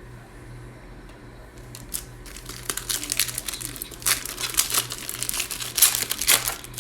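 Crinkling and tearing of a Mosaic basketball card pack's plastic wrapper as it is opened by hand, starting about two seconds in and growing busier, with the sharpest crackles near the end.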